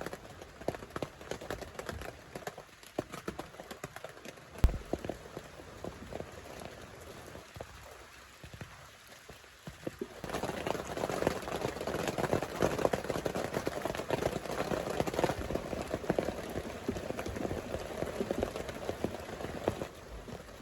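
Rain falling, at first as scattered drips and taps with one sharp knock about four and a half seconds in, then setting in as a denser, louder steady patter about ten seconds in.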